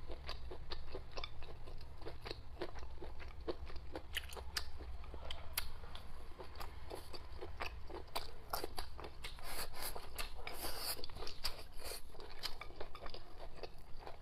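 Close-miked chewing of spicy stir-fried chicken offal: irregular wet crunches and clicks from the mouth, busiest and loudest about two-thirds of the way through.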